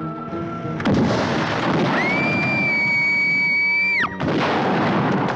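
Sound effect of an electric shock from a live overhead power line: a sudden loud crackling burst about a second in, then a steady high whine that drops in pitch and cuts off about four seconds in, with the crackle carrying on, over music.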